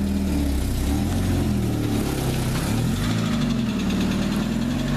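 Mazda Miata's four-cylinder engine, a used swap-in that hadn't run in a couple of years, idling with its speed wavering slightly up and down. It is ticking a little, a sound the owner worries about in a used motor.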